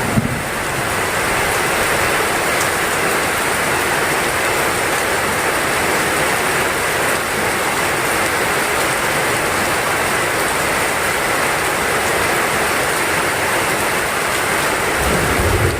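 Heavy rain falling steadily, an even dense hiss. A low rumble starts to build near the end.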